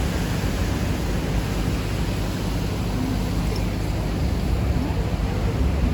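Sightseeing boat's engine running steadily underway, a low even rumble with water and air noise over it.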